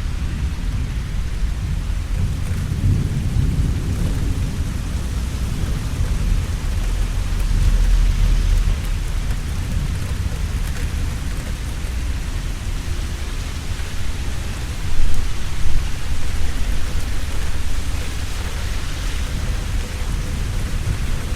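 Steady rain falling, with a low rumble of thunder underneath that swells a few times and peaks sharply about two-thirds of the way through.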